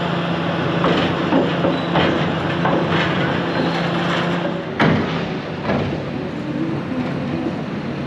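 Heavy demolition machinery running steadily, with a string of clanks and crashes as the building is broken up; the loudest crash comes about five seconds in.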